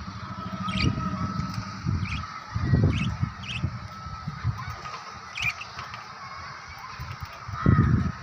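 Lovebirds chirping in short, sharp calls, roughly one every half-second to second, over a faint steady hum, with a couple of dull low thumps around the middle and near the end.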